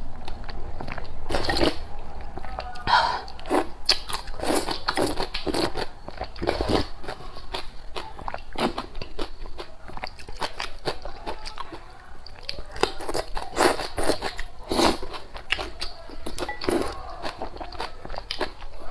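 Close-miked eating: irregular bites, crunches and chewing of a meal of congee with fermented tofu and water spinach, full of short crisp clicks.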